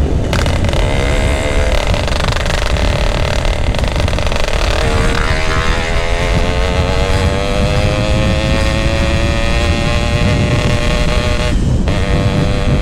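Yamaha RX-King two-stroke single running through a GRT18 aftermarket exhaust while riding under acceleration: the engine note drops at a gear change about five seconds in, then climbs steadily and breaks off briefly near the end for another shift. Heavy wind rumble on the microphone.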